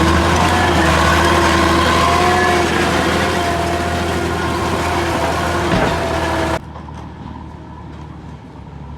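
Heavy machine engine running steadily: a low drone with several steady higher tones over it. About six and a half seconds in the sound drops away abruptly to a much quieter engine rumble.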